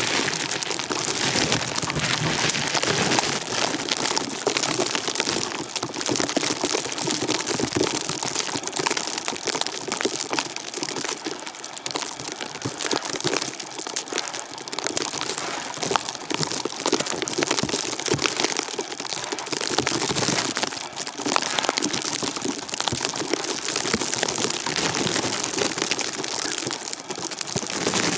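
Steady crackling hiss of a blizzard: driven snow pattering and crackling without pause.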